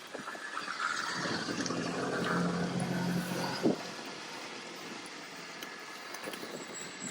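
A car passing by on a wet road: its engine and tyre noise swell over about two seconds and fade out about four seconds in, over a steady background of rain.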